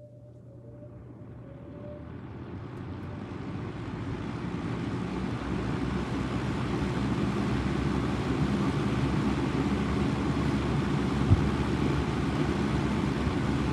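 Windsor C122 box fan, made by Lakewood, spinning up on its low setting: the rush of air grows over the first five or six seconds as the blades come up to speed, then runs steadily over a low motor hum. A single short tick about eleven seconds in.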